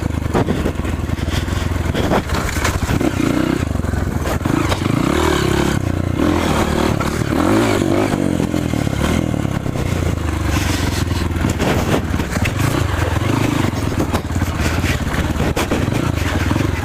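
Off-road motorcycle engine running and revving up and down, its pitch rising and falling, with scattered knocks and rattles.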